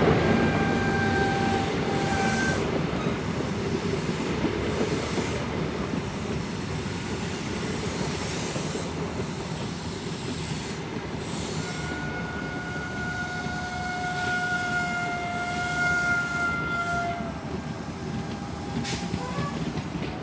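InterCity 125 high-speed train rolling into the platform and slowing: a steady rumble of wheels on rail, with a high brake squeal briefly near the start and again for several seconds in the middle.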